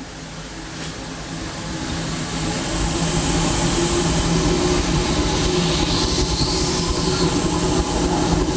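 Running noise of a steam locomotive heard from inside its cab: rail and wheel clatter mixed with the engine's steady low hum. It grows louder over the first three seconds, then holds steady.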